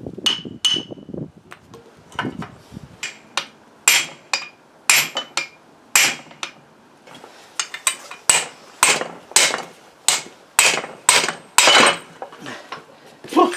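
Repeated hammer blows on metal, sharp and ringing, knocking at seized line-shaft parts to free them. The strikes come irregularly at first, then at about two a second in the second half.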